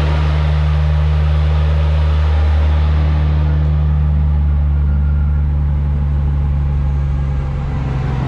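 Toyota 2JZ-GTE turbocharged straight-six, rebuilt with forged internals and a G40 turbo, running at a steady engine speed on a chassis dyno, a loud even drone with no revving, while the dyno's RPM is being matched to the car's.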